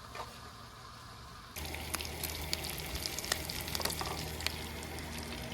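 Bacon sizzling and popping in a frying pan. The sound cuts in abruptly about one and a half seconds in, over a faint hiss.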